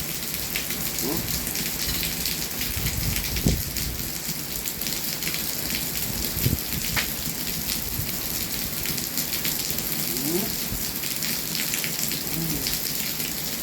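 Steady rain falling, an even dense hiss, with a couple of brief low thumps.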